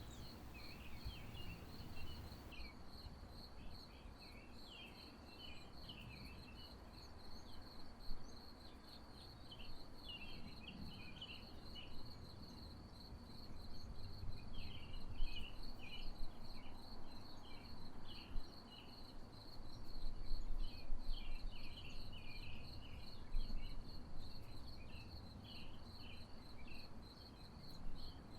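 A cricket chirping in a steady, rapid pulse throughout, with recurring bursts of small birds twittering and a faint low rumble underneath.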